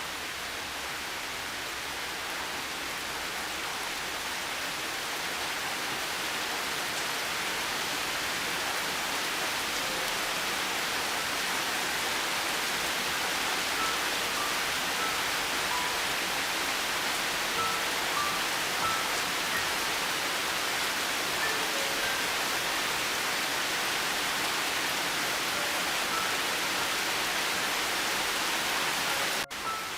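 Steady rain hissing, with faint, sparse soft piano notes under it. The rain dips briefly near the end.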